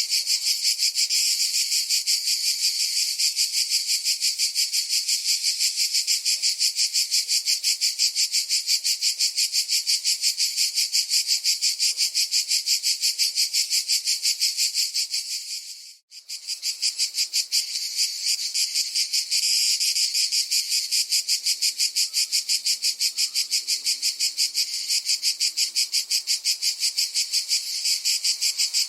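Cicadas buzzing: a continuous, high, rapidly pulsing drone that drops out sharply for a moment about halfway through, then comes straight back.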